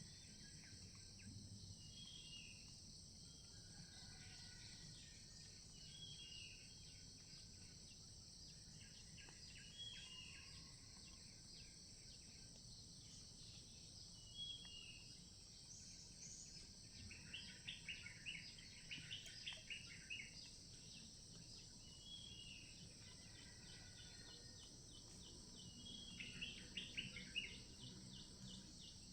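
A faint, steady high-pitched insect chorus of crickets, with birds calling in short repeated chirps. The bird calls come in busier flurries midway and again near the end.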